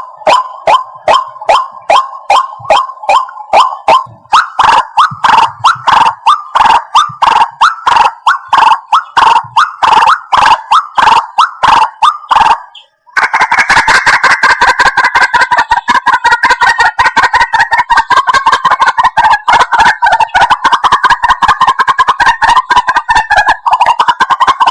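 White-breasted waterhen calls, repeated evenly about three times a second. After a brief break just past halfway, they turn into a much faster, dense chattering.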